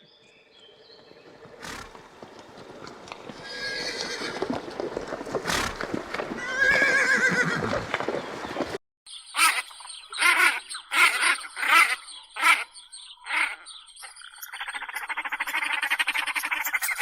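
Horse whinnying, a long call that swells and falls away in pitch, cut off about halfway through. A run of short calls about once a second follows, and near the end a buzzy, rapidly pulsing call begins, typical of a duck quacking.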